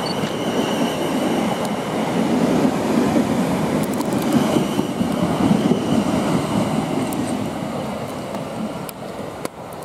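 South Western Railway Class 450 electric multiple unit moving off past the platform: wheels rumbling on the rails under a steady high whine from the traction equipment, fading over the last couple of seconds as the train draws away.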